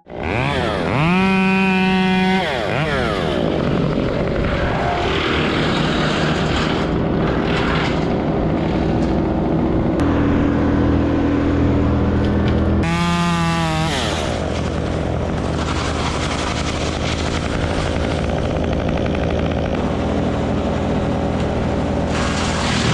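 Small gasoline engines running steadily, one of them revving up to a high pitch and back down twice: briefly about a second in, and again about 13 seconds in.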